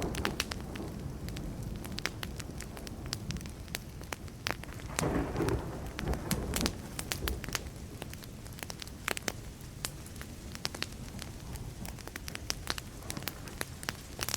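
Burning wood fire crackling, with frequent sharp pops over a steady low hiss. About five seconds in, a roll of distant thunder rumbles for a couple of seconds.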